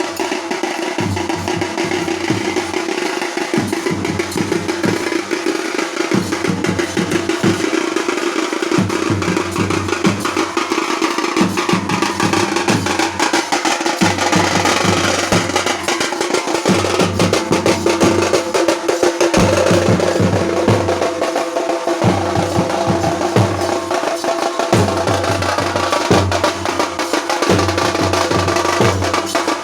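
Odia village baja band playing: fast, dense drumming with snare-like rolls and a deep bass drum coming in and out in stretches, under a sustained melody line.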